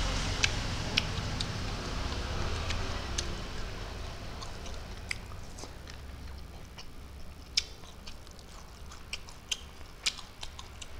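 A person chewing food close to the microphone, with scattered sharp mouth clicks and smacks.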